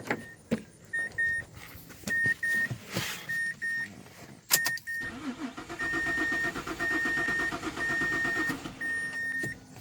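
Car engine cranked on the starter for about four seconds from about halfway in, without starting, to turn it over for a compression test on cylinder number 1. A car's high warning chime beeps on and off throughout, and a sharp click comes just before the cranking.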